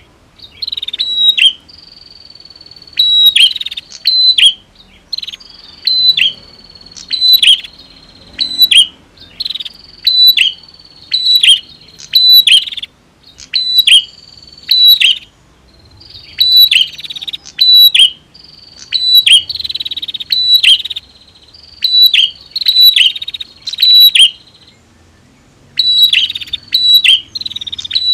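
Prenjak (bar-winged prinia) calling loudly: sharp chirps dropping in pitch, in quick clusters of two to four, repeated over and over with brief pauses. A thin, high, steady tone runs behind many of the clusters.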